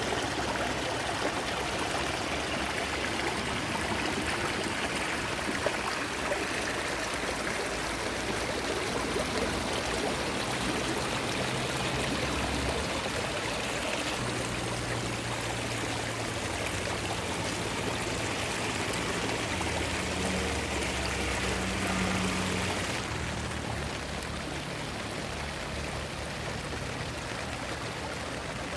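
Steady rushing of flowing water, like a stream, with no distinct events. It drops slightly in level near the end.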